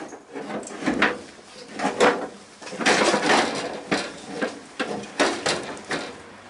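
Irregular clattering and knocking of metal tools and parts being handled, several sharp knocks a second at times.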